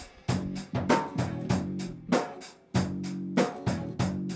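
A band playing an instrumental stretch of a song between vocal lines: drum kit hits about three times a second over bass and guitar.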